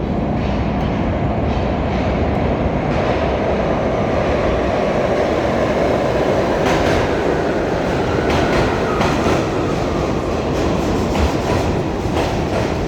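R68 subway train with Westinghouse propulsion running through a subway station: a loud, steady rumble with wheels clicking over rail joints. A faint falling whine comes in during the second half.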